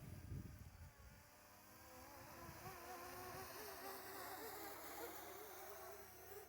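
Faint buzzing whine of a Parrot ANAFI quadcopter's propellers in flight, its pitch wavering as the drone manoeuvres and growing louder after about two seconds. A brief low rumble, like wind on the microphone, comes at the start.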